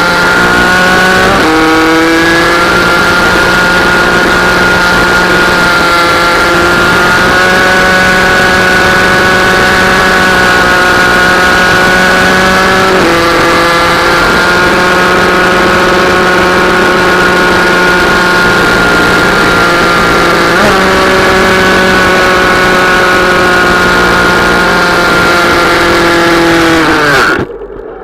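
Minibike engine running at high revs under load, its pitch held fairly steady with brief dips and recoveries about a second in, about 13 seconds in and about 21 seconds in. Near the end the pitch sags and the engine sound cuts off abruptly.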